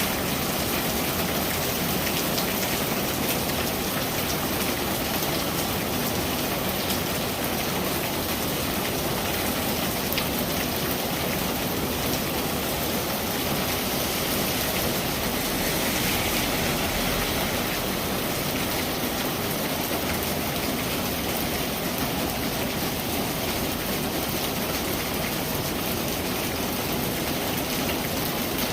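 Steady rain falling on a surface, an even hiss of many drops with no change in strength.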